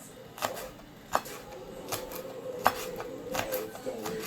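Kitchen utensils knocking and clinking during food preparation: about seven sharp taps, spaced irregularly from under half a second to about a second apart, over a faint steady hum.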